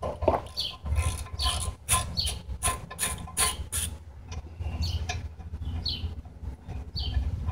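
Small birds chirping over and over in quick, short notes above a steady low rumble, with a clunk near the start.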